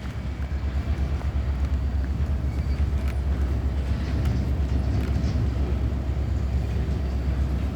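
Diesel-electric freight locomotives idling in a rail yard, a steady low rumble with a few faint clicks.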